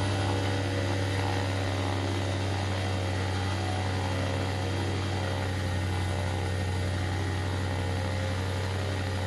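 Black Devil Corsair M25Y 172 two-stroke paramotor engine, fitted with a Vortexaero exhaust pipe, running steadily in flight and driving its propeller.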